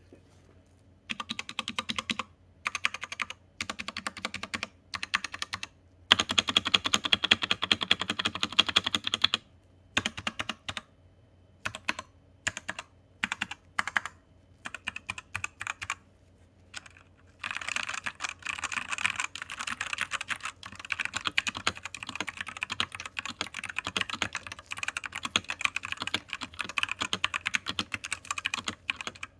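Typing on a Royal Kludge RK84 mechanical keyboard with red linear switches and ABS keycaps: short bursts of keystrokes with pauses between them, then steady fast typing from a little past halfway.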